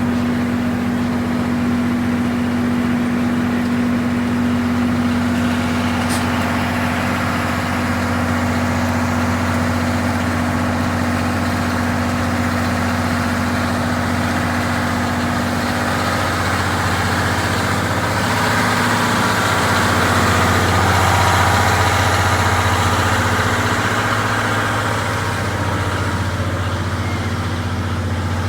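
Diesel generator engine of a JNR Series 12 passenger coach running steadily at constant speed with a deep, even hum, growing a little louder and noisier about two-thirds of the way through. A single sharp tick sounds about six seconds in.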